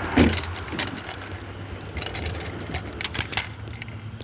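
A loud knock just after the start, then scattered clicks and light rattles, over a steady low hum.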